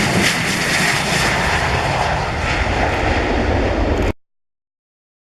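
Boeing 737-700's CFM56-7B turbofans running at takeoff power on departure, a loud, steady jet roar that cuts off abruptly about four seconds in.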